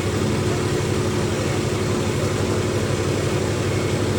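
Diesel tractor engine running steadily with an even, unchanging pitch.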